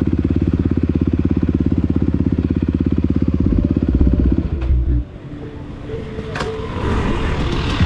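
Dirt bike's single-cylinder four-stroke engine (a Honda CRF250R) running at a steady, even idle, dropping away about five seconds in. Two sharp clicks follow, then more engine noise builds near the end.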